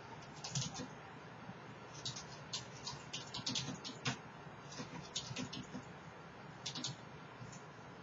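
Typing on a computer keyboard: an irregular run of light key clicks in quick clusters over a steady low hiss.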